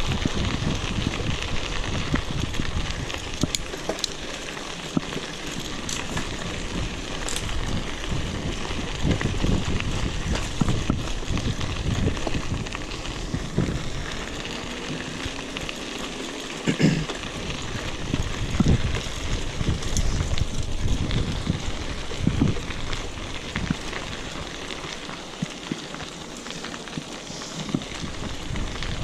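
Mountain bikes rolling along a dirt trail: tyres on the ground and an old, very loud bike rattling, with many small clicks and knocks throughout.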